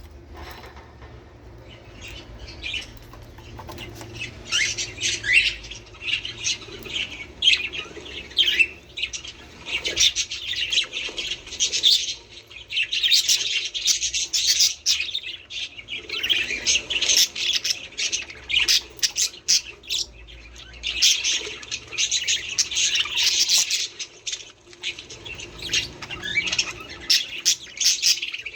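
Budgerigars chattering and chirping in busy bursts of fast warbles and squawks, with short lulls between the bursts.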